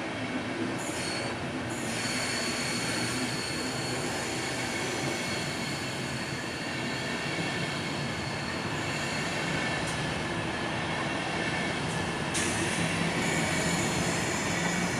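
A DB Intercity train's coaches roll past with a steady rumble of wheels on rail. Thin, high squealing tones from the wheels on the curve come in about two seconds in and grow stronger near the end.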